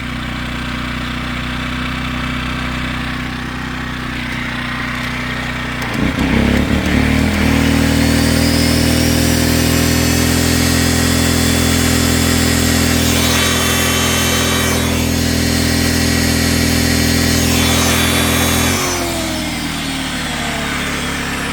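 Harbor Freight Predator generator running steadily; about six seconds in, an old Milwaukee 7-inch angle grinder powered from it is switched on, spins up with a rising whine and runs steadily for about twelve seconds as a load on the generator, then is switched off and winds down with a falling whine.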